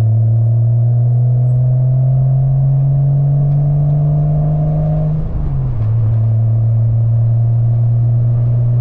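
1997 Porsche 986 Boxster's 2.5-litre flat-six through an aftermarket cat-back exhaust, heard from the open-top cockpit while driving. The engine note climbs slowly, drops at a gear change about five and a half seconds in, then holds steady.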